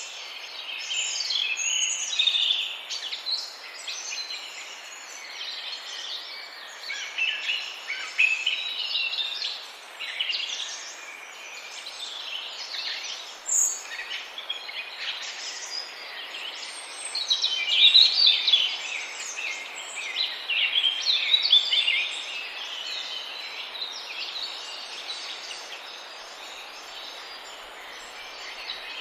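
A dense chorus of many small birds chirping and calling at once, with many short overlapping calls that swell and ease off over a steady background hiss.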